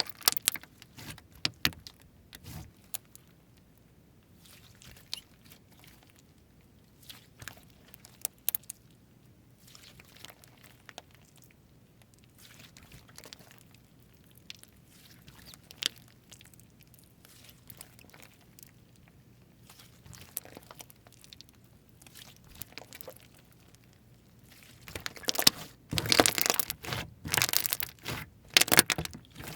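Slime being played with by hand: sparse small clicks and pops. About three-quarters of the way through they give way to denser, louder crackling.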